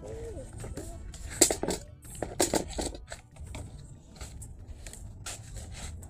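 Potting soil being scooped and dumped into a planter: a few short crunching, rustling strokes, the loudest about one and a half and two and a half seconds in.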